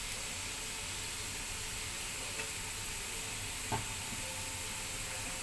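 Chicken and green papaya sizzling as they fry in oil in a pan, a steady hiss, with a single sharp knock about three and a half seconds in.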